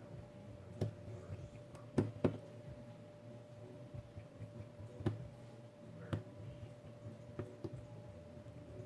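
Scattered light clicks and taps, about eight at uneven intervals with two close together about two seconds in, over a steady low hum: small hand tools working on a smartphone during a battery replacement.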